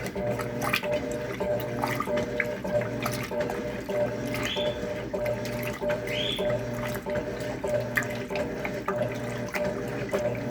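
Electrolux LTC10 top-loading washing machine agitating a full load: the motor hums and the water sloshes, pulsing about once a second as the agitator swings back and forth, with a swish of water roughly every two seconds.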